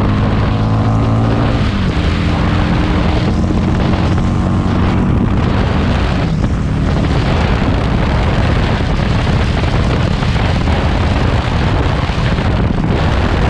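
Harley-Davidson Street 500's V-twin running with an aftermarket exhaust, its note dropping in pitch over the first couple of seconds. Heavy wind rushing over the helmet-mounted GoPro's built-in microphone then covers most of the engine sound.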